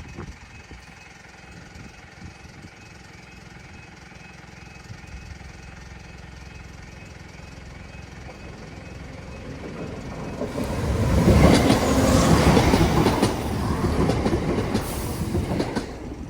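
A train passing over a level crossing: after about ten seconds of quieter background, it arrives with a loud rush and the clatter of wheels on the rails, then fades away near the end.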